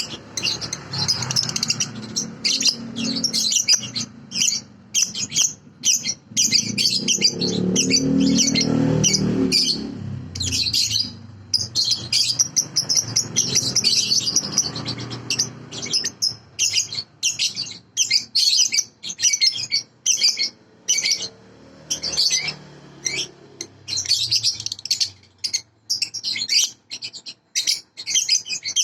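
Balibu bird singing a fast, continuous string of short, high chirping notes. A low rumble runs beneath the song for roughly the first half, strongest around eight to ten seconds in, then fades.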